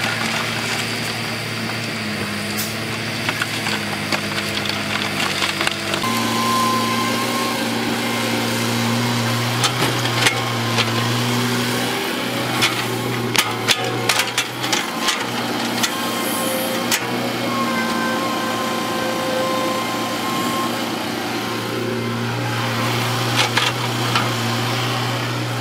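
Heavy earth-moving machine's diesel engine running steadily, stepping up in pitch and level about six seconds in. Scattered sharp knocks and clatter come through the middle of the stretch.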